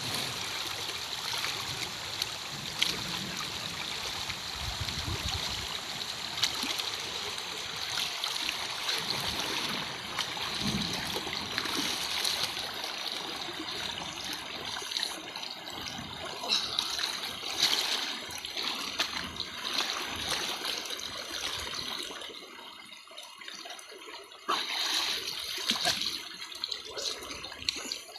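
River water splashing and trickling, with irregular louder splashes and a brief quieter spell about three-quarters of the way through.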